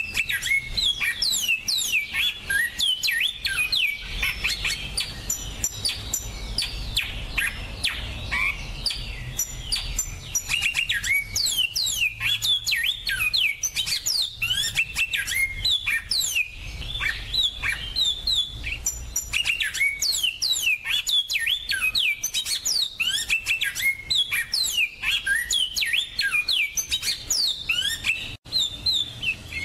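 Finches singing: a fast, unbroken stream of high chirps, sweeps and trills.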